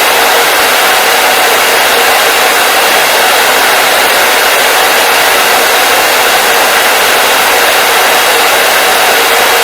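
Hair dryer running steadily: a loud, even rushing of air with a faint motor hum, unchanging throughout.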